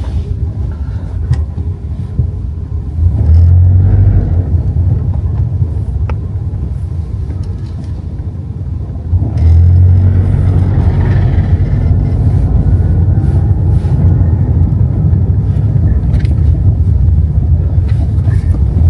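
A car's engine and road noise heard from inside the moving car: a steady low rumble that swells about three seconds in, eases off, then grows louder again about nine seconds in.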